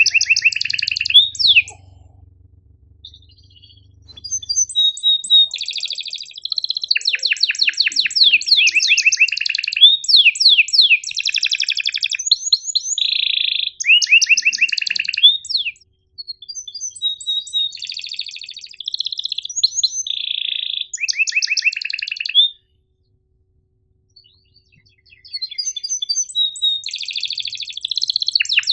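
Domestic canary singing long phrases of fast rolling trills, sharp chirps and held whistled notes, broken by short pauses. A faint low hum sits under the first few seconds.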